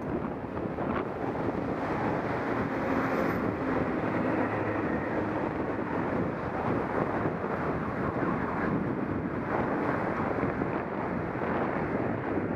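Wind rushing over a helmet- or bike-mounted action camera's microphone while riding a bicycle, a steady rumbling noise, with the hum of street traffic mixed in.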